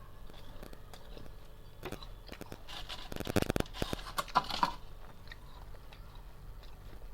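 Freezer frost being chewed: faint crunching, then a dense, louder run of crunches from about three to nearly five seconds in.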